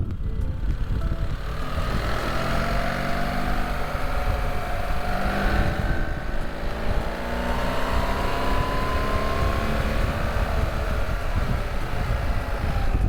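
Motorcycle engine running while riding, its pitch rising and falling several times as it accelerates and eases off, over a steady low rumble of wind and road noise.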